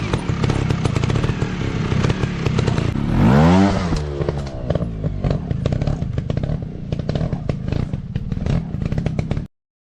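Dirt bike engine running hard off-road, revving up and back down once about three and a half seconds in, with clattering and knocking over the engine. The sound cuts off abruptly near the end.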